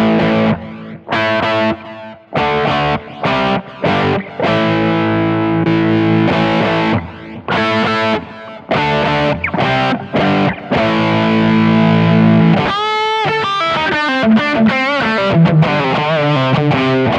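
High-gain distorted electric guitar playing choppy chord stabs and held chords. From about 13 seconds in it switches to lead lines with bent, wavering notes.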